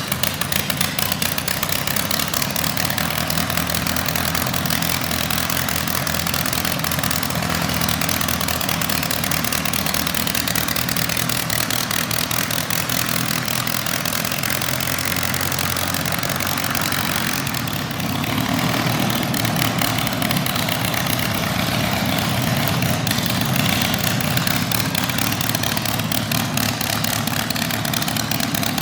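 Modified garden pulling tractor engine running loud and steady, close up, getting a little louder about eighteen seconds in.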